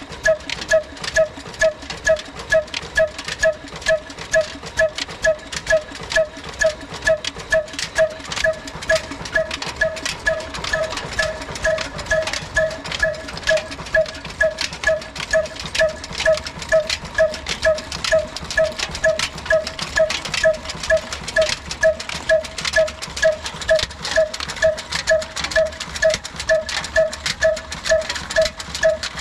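Old black single-cylinder desi diesel engine running slowly and evenly, beating about twice a second with a ringing metallic clank on each beat.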